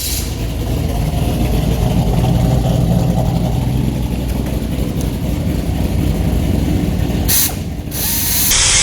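Camaro small-block Chevy V8 engine running, driving the spinning rear hub that serves as a makeshift lathe to cut down a wheel spacer's hub-centric ring. Two short bursts of hiss come near the end.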